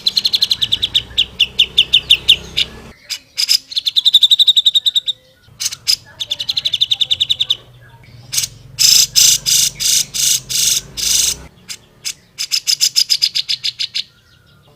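Grey-cheeked bulbul (cucak jenggot) singing in fast, rattling trills of rapidly repeated high notes. The phrases each last a second or two and come in a loose series with short pauses between them.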